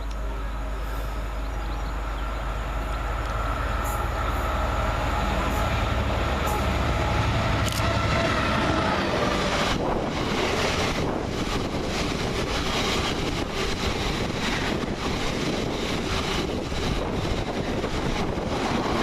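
Class 66 diesel locomotive hauling a freight train past, its two-stroke V12 diesel engine running with a steady drone. From about ten seconds in, the wagons follow, rattling and clicking over the rails.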